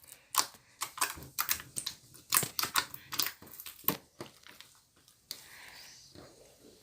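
Slime being squeezed and worked by hand, giving an irregular run of sharp clicks and pops that thins out after about four seconds.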